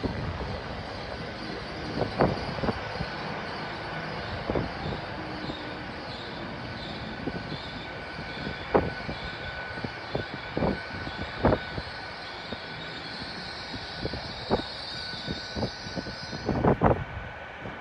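Great Western Railway Class 800 train rolling past the platform, its wheels clicking irregularly over rail joints and points, with a cluster of clicks near the end. Under the clicks runs a steady high hum, and a hiss stops abruptly near the end.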